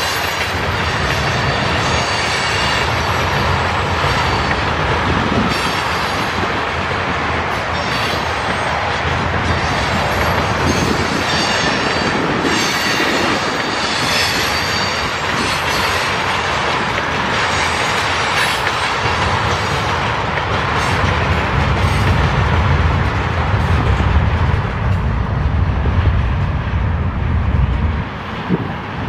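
Freight train of tank cars and boxcars rolling past, steel wheels clattering over the rail joints, with high wheel squeal at times. The low rumble grows heavier in the second half.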